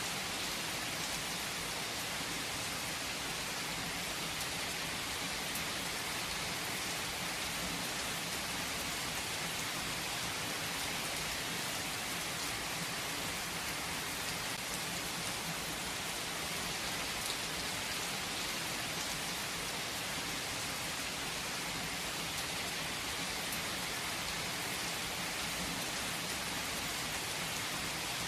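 Steady rain falling and pattering on surfaces, an even hiss with a few faint drop ticks and no change in intensity.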